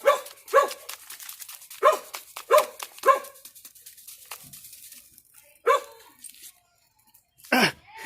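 A dog barking, six short single barks with gaps between them, and faint scattered crackling clicks under the barks.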